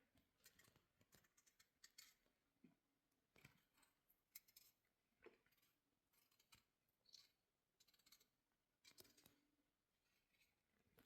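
Near silence with faint, short clicks at irregular intervals, about a dozen of them.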